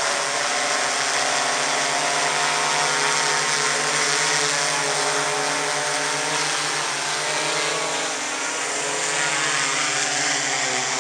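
Multirotor surveillance drone's propellers buzzing steadily at close range, a loud pitched hum over a high hiss.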